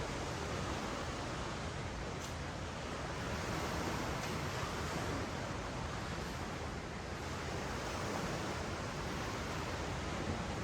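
Ocean surf washing on a sandy beach: a steady hiss that swells a little twice as waves come in.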